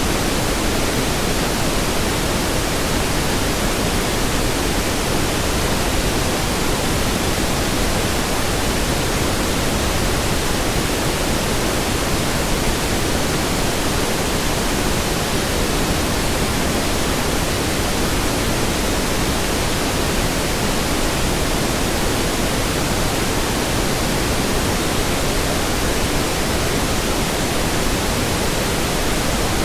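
Steady pink noise: an even, unchanging hiss spread across the whole range, with more weight in the lows than white noise.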